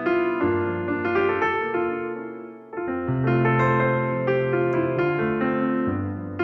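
Background piano music: soft sustained chords and melody notes, with a brief fade and a new phrase about two and a half seconds in.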